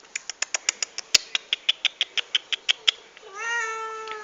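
A fast, even run of sharp clicks, about seven a second, for nearly three seconds, then a cat meowing: one long, steady call near the end.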